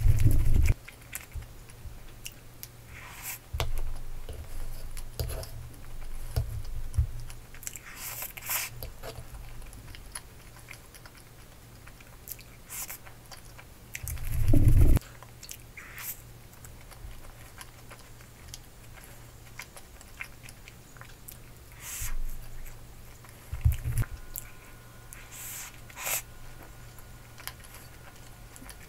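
Close-up mukbang eating sounds: a person chewing soft waffle with whipped cream and banana, with wet mouth sounds and light crunches. Knife and fork click against the wooden tray, and there are a few dull thumps at the start and about halfway through.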